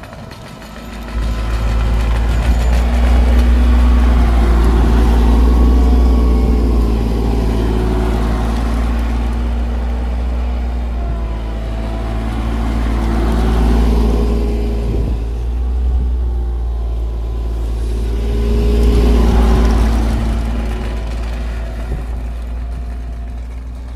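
Heavy diesel engine of asphalt-paving machinery running close by. It starts up loud about a second in, then grows louder and softer a few times as the machine works back and forth.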